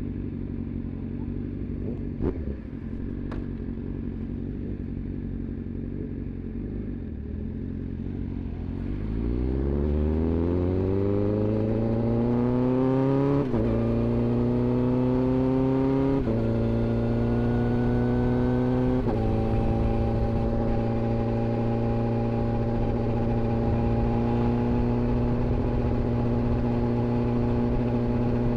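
Inline-four sport bike engine running at low revs, then accelerating hard with the revs climbing. Three quick upshifts drop the pitch each time, and it settles into a steady cruise. Two sharp clicks sound a few seconds in.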